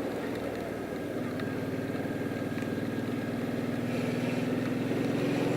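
Motorcycle engine running steadily while under way, its note slowly getting louder over the last few seconds; to the rider it sounds much better.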